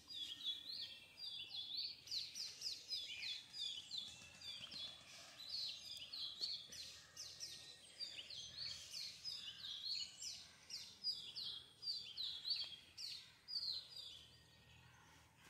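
Birds chirping and singing: a steady stream of short, high notes that slide down in pitch, several a second, dying away near the end.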